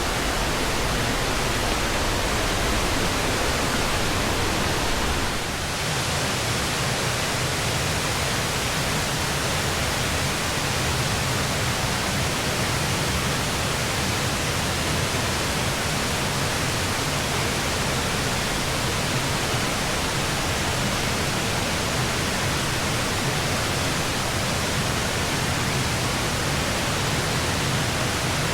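Steady rush of a large waterfall heard from close by at its base: falling water as an even, unbroken noise, dipping slightly for a moment about five and a half seconds in.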